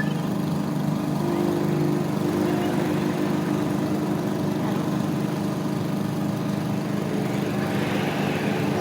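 Engine running steadily at a constant speed, a continuous low drone.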